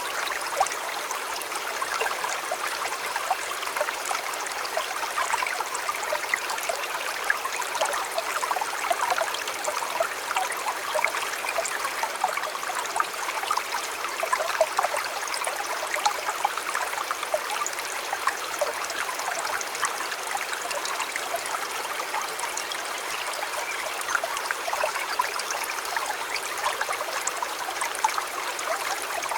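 River water flowing over shallows: a steady rush with many small splashes and trickles.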